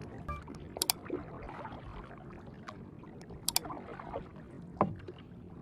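Water sloshing and lapping, with a few sharp clicks, some of them in quick pairs.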